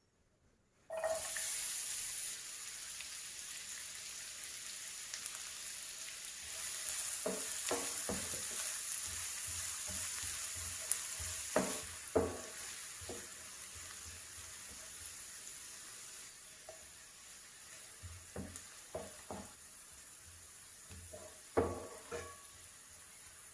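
Food frying in hot oil in a pan, the sizzle starting suddenly about a second in and slowly dying down. A spoon stirs it, knocking and scraping against the pan now and then.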